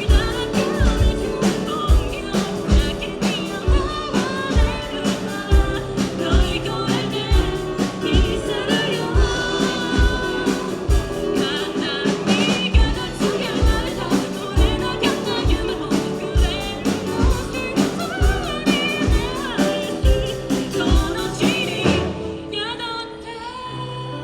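Live band playing a song with a singing voice over a steady drum beat. Near the end the drums and most of the band drop out, leaving quieter held notes.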